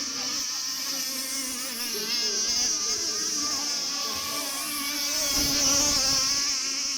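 Several radio-controlled racing boats' small engines buzzing together at high revs, their pitches wavering as they race; one grows louder about five seconds in, then eases.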